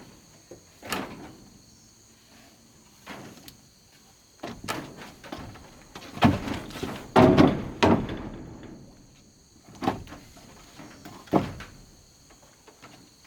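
Irregular knocks and thuds of bamboo and wood being handled and struck during construction, loudest in a cluster a little past the middle.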